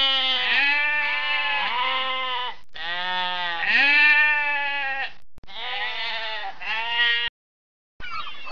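Sheep bleating: a string of long, wavering bleats, several voices overlapping, that stops suddenly near the end.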